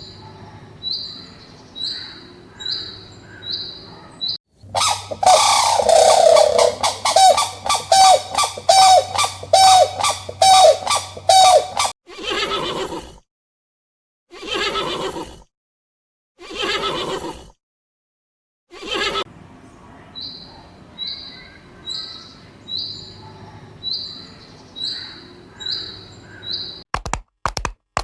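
A loud series of evenly repeated animal calls, about two a second for some seven seconds. Then come three shorter calls with silent gaps between them. Before and after, high thin chirps repeat about twice a second.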